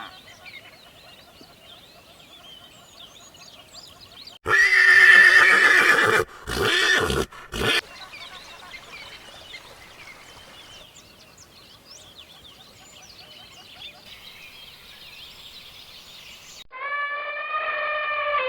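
A horse whinnies loudly about four seconds in, followed at once by two shorter calls, over faint high chirping. Near the end a cat starts a long, steady meow.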